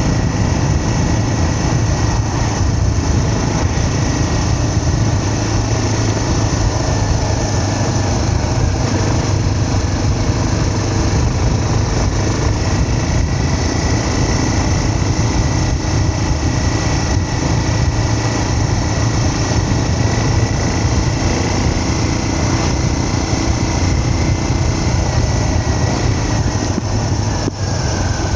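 Engine running steadily at an even pitch while travelling, its tone dipping slightly near the end.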